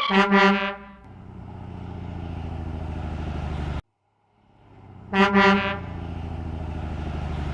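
Truck horn sound effect giving two quick toots, followed by a low truck engine running and building up, cut off abruptly. The horn-and-engine sequence then plays again.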